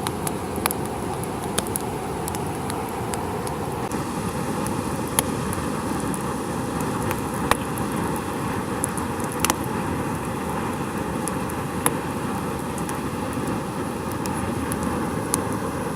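Campfire crackling, with sharp pops at irregular intervals over a steady rushing noise.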